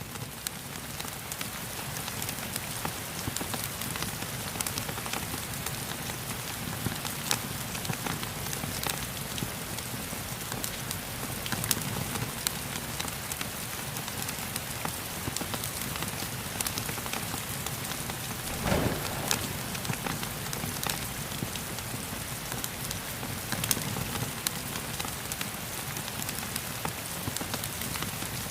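Steady rain hissing, mixed with the crackle of a wood fire: scattered sharp pops over the even wash, one stronger low pop about two-thirds of the way through.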